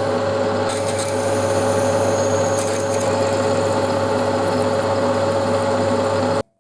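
A workshop power tool running steadily with a rough rubbing, cutting noise over a constant hum, stopping abruptly near the end.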